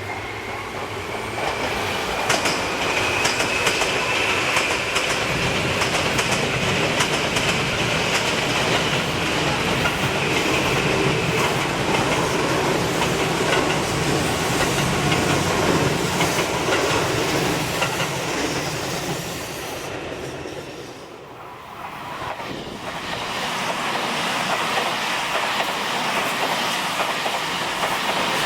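Electric commuter train running, with a whine that rises in pitch over the first few seconds as it gathers speed and wheels clicking over rail joints. The sound drops briefly about 21 seconds in, then comes back to the same steady running.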